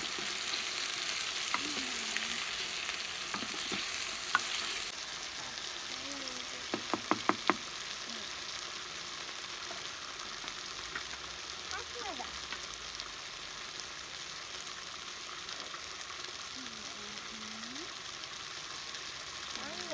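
Food frying in a pan, a steady sizzling hiss that eases slightly about five seconds in. A quick run of about five sharp knocks comes around seven seconds in.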